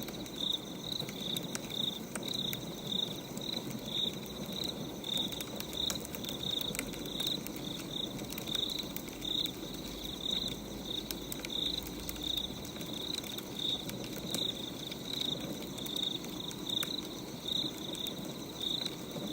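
Crackling wood fire with scattered small pops over a steady hiss, while a cricket chirps steadily at about two to three chirps a second.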